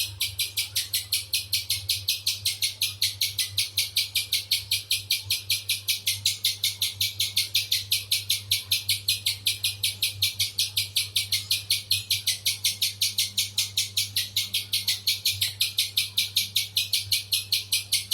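Spiderhunter calling: a long, unbroken series of sharp, high chips, evenly paced at roughly four and a half a second, over a faint steady low hum.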